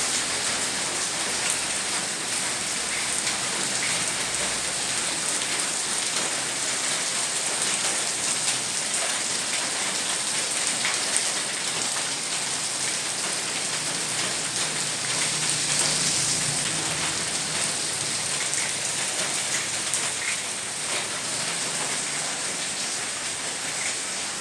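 Heavy rain pouring steadily, a dense patter of drops striking surfaces.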